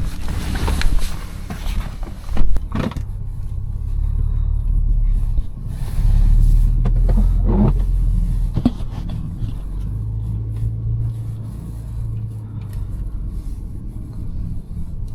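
Audi S5's supercharged V6 with a resonator-deleted exhaust running at low speed, a steady low rumble that swells and eases a little, with a few brief knocks, the loudest about two and a half seconds in.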